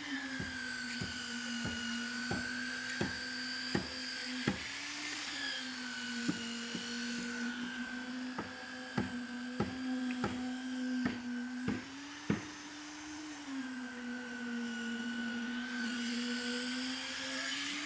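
Machinery at a concrete slab pour running steadily, its drone dipping and rising slowly in pitch. Sharp knocks come about every 0.7 s and stop about twelve seconds in.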